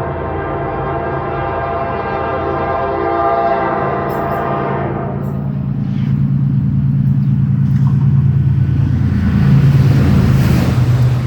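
Diesel-hauled passenger train passing: the locomotive's horn sounds one long blast that stops about five seconds in. Then the engine's low rumble and the rolling of the wheels grow louder as the train comes by, with a few clicks.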